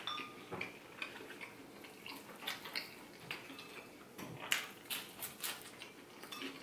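Close-miked chewing and lip smacking: a steady string of small, wet mouth clicks, with a light clink of a fork on a ceramic plate at the start and a louder click about four and a half seconds in.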